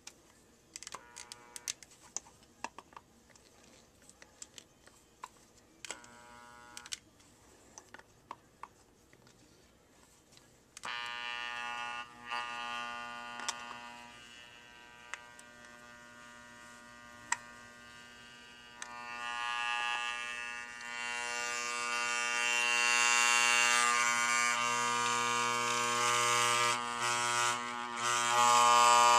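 Small clicks and taps of a hair clipper being handled, with two short buzzes, then about eleven seconds in an old Wahl CMCO hair clipper's electromagnetic motor switches on and runs with a steady buzz that gets louder over the last several seconds.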